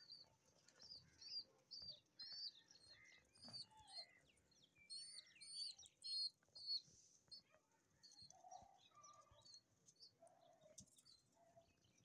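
Faint, quick high-pitched bird chirps, about two a second, that thin out after the first half and give way to a few lower calls near the end.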